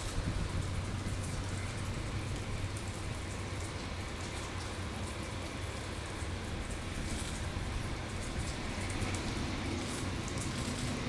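Steady rain falling, with a low, steady hum underneath.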